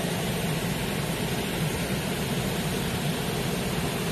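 Heavy rain falling steadily, heard from under a porch roof with water streaming off the roof edge.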